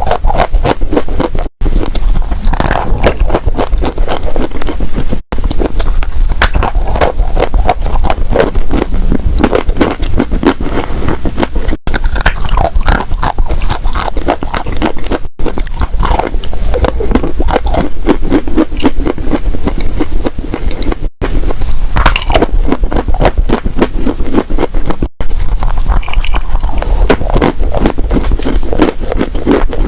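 Dry, crunchy clay being bitten and chewed close to the microphone: dense, loud crunching and crackling, broken by a few abrupt split-second gaps.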